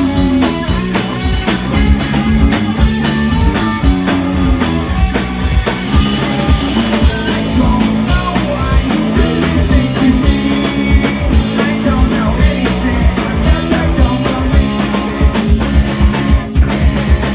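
Live rock band playing loudly: drum kit, electric guitar and bass driving steadily, with a brief break about sixteen seconds in before the beat comes back.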